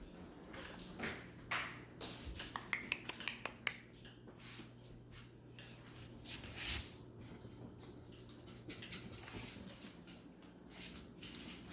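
Chihuahua puppies playing, with soft rustles and a quick run of about seven sharp clicks and taps a little over two seconds in. A faint steady hum sits underneath.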